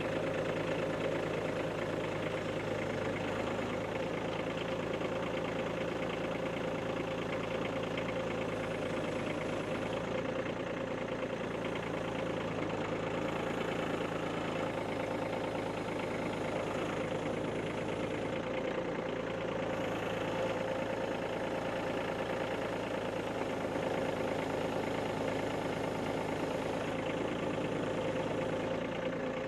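Kubota compact tractor's diesel engine running steadily, with a constant hum and an even steady tone above it.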